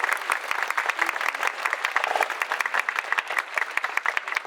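Crowd of spectators clapping after a marching band's brass performance, the applause thinning out toward the end.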